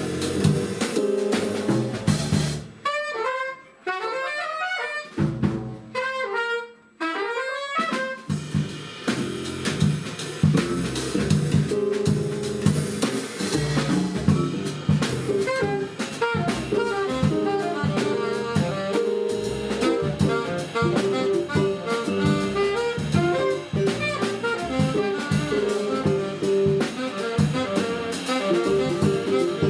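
Jazz quintet playing, with drum kit, bass and saxophone over a steady beat. About three seconds in, the rhythm section drops out and a lone melodic line plays for a few seconds before the full band comes back in.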